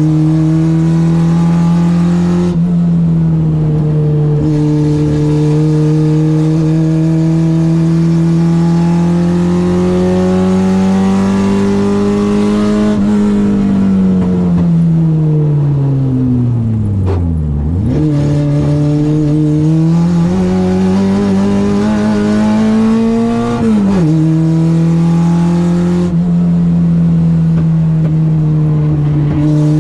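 Citroen AX's 8-valve four-cylinder engine on twin Weber 40 carburettors being driven hard on track. The engine note climbs steadily, dropping sharply at gear changes near the start and about 24 seconds in; a little past halfway it falls away steeply as the car slows, then picks up and climbs again.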